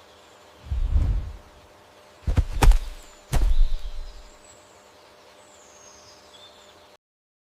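Three deep, heavy thuds about a second apart, over faint rainforest ambience with thin high bird chirps; the sound cuts off to silence near the end.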